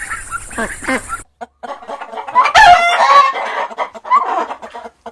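Chickens clucking, with a rooster crowing loudly and briefly about two and a half seconds in. Shortly after the start the sound cuts abruptly from other animal calls to the chickens.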